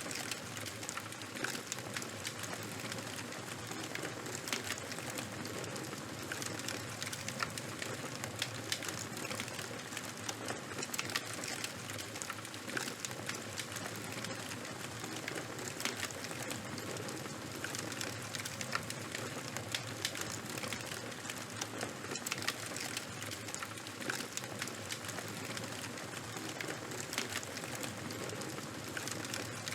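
Burning charcoal and wood fire crackling, with irregular small snaps over a steady hiss.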